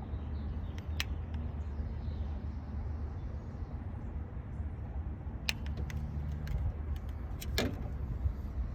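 1999 Toyota 4Runner engine idling steadily on a cold start, with a few sharp clicks, the longest near the end.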